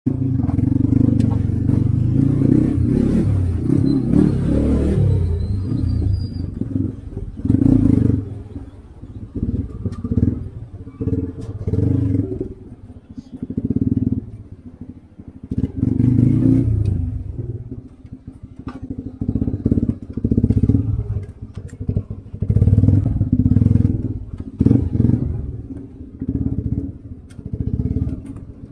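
Motorcycle engine being ridden, its throttle opening and closing again and again: a loud run over the first few seconds, then surges every couple of seconds that fall back in between.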